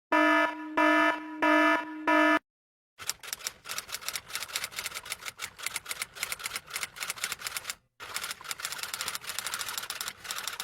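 Sound effects: an electronic alarm buzzer beeping four times, then after a brief pause a long run of rapid typing clicks, broken by a short gap about eight seconds in.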